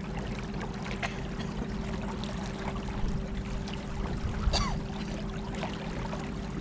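Battery-powered 50-pound-thrust electric trolling motor running with a steady hum, with water lapping and splashing against the boat.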